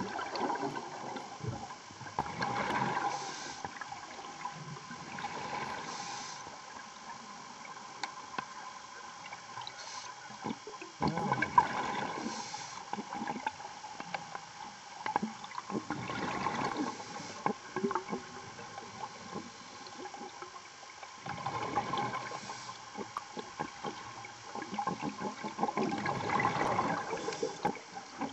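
A diver's breathing underwater: a slow cycle of breaths with a gurgle of exhaust bubbles about every five seconds, six in all, over a steady faint hum.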